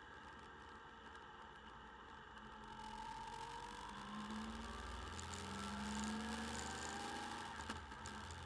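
Motorcycle engine running, picked up by a camera mounted on the bike; about three seconds in it grows louder and its pitch shifts as the bike revs and accelerates. A single sharp click near the end.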